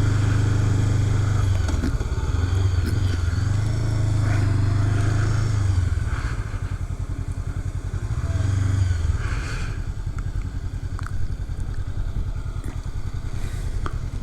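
Honda CB500X's parallel-twin engine slowing as the motorcycle pulls over, with a short rise about eight seconds in, then idling steadily with an even, fast pulse.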